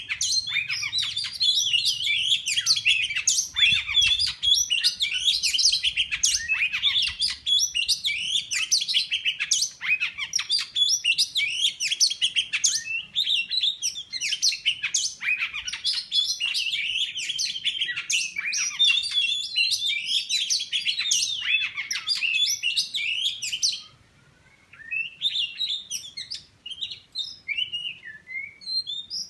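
Oriental magpie-robin (kacer) singing a fast, unbroken run of varied chirps and whistles. The song stops about 24 seconds in, and a few scattered chirps follow near the end.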